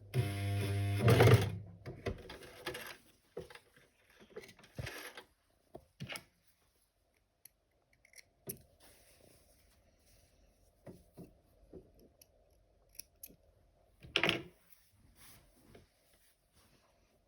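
Electric sewing machine stitching for about a second and a half, then stopping. Scattered quiet clicks and small handling sounds follow, with one louder rustle about fourteen seconds in.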